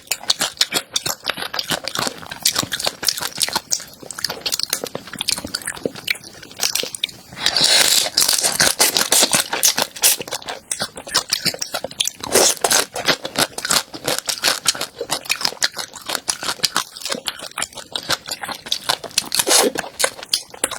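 Close-miked biting and chewing of a crunchy food: dense, rapid crunches and crackles, with a louder, longer stretch of crunching about eight to ten seconds in.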